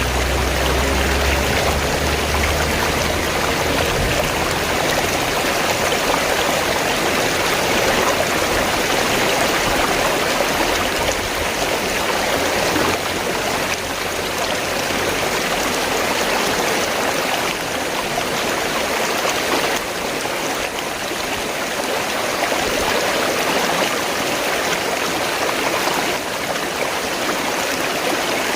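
River water flowing and rushing steadily. A low rumble underneath dies away in the first few seconds.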